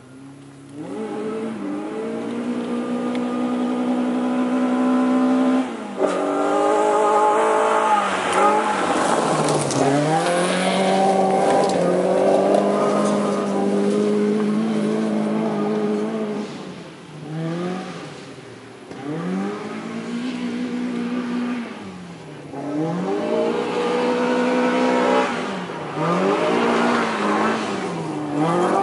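Small car's engine revving hard as it is driven around a course. Its pitch climbs and drops back again and again, with a sharp drop about six seconds in and quicker dips and rises in the second half.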